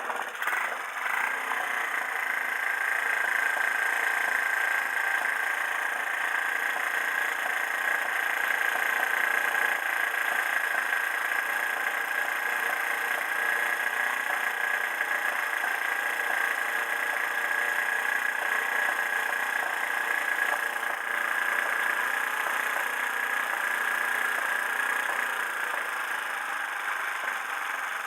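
Bored-up Honda Jazz's small single-cylinder four-stroke engine idling steadily.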